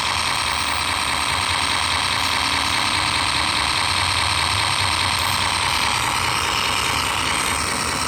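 Electronic RC sound module playing a recorded M35 military truck engine sound through a small 2-inch speaker, running steadily at idle with no revving.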